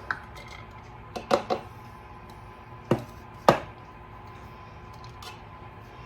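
Kitchen utensils knocking and tapping against dishware as minced garlic is moved into a small bowl: about half a dozen short, sharp knocks at irregular intervals, the loudest about three and a half seconds in.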